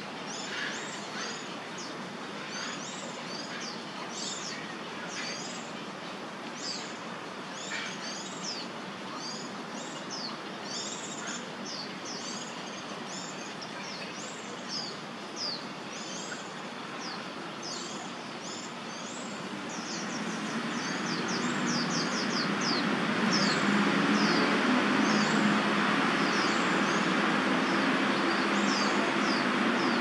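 Small birds chirping: quick, high, down-slurred calls, several a second. About two-thirds of the way in, a broad rushing noise swells up and grows louder than the chirping.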